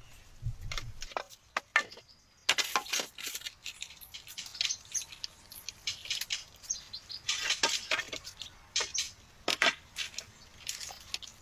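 Irregular clusters of crackling and snapping, like dry twigs and leaf litter being crushed and broken.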